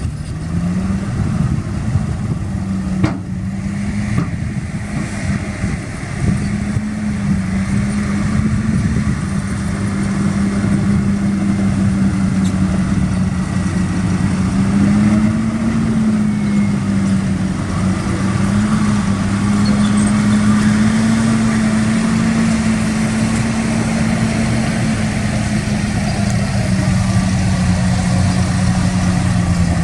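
Heavy diesel engine of earthmoving equipment running steadily, its note rising and falling slightly, with one sharp knock about three seconds in.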